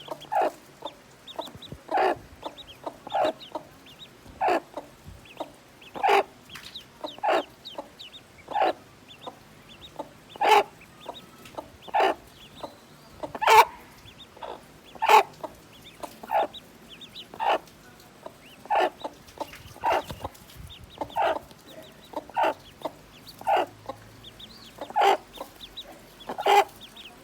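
Mother hen clucking steadily to her brood of ducklings: short clucks about every second or so, with fainter high peeps in between.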